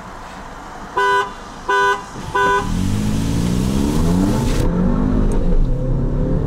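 A car horn honks three short times, evenly spaced, as the start signal. Then the engine of a Skoda Octavia 1.8 turbo, heard from inside its cabin, is floored: it rises steadily in pitch under full acceleration, with one upshift about two seconds into the pull.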